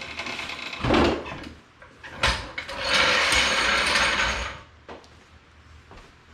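A jack being lowered under a ride-on toy vehicle: a knock, a sharp click, then a steady rushing hiss for about two seconds as it lets down.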